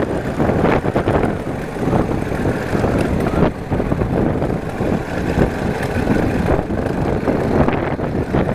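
Motorcycle engine running while riding, mixed with wind rushing over the microphone in a dense, unsteady noise.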